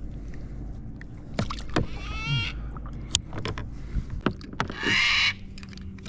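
Clicks and knocks from handling gear on a kayak while a freshly caught Murray cod is measured, over a steady low hum. A brief wavering tone comes about two seconds in, and a loud half-second hiss, like a splash or rustle, about five seconds in.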